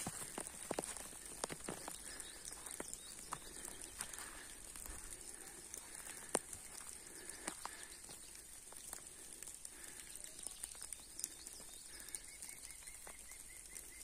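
Faint wild birdsong: small birds calling, with a quick run of short repeated high notes near the end, over scattered faint ticks.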